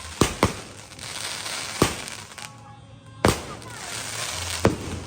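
Consumer aerial fireworks going off: five sharp bangs, the first two close together and the rest about a second and a half apart, with crackling and hiss between them.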